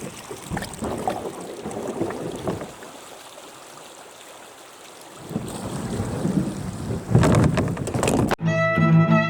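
Water splashing and sloshing with wind noise on the microphone, dipping quieter for a couple of seconds and then growing louder. Violin music starts shortly before the end.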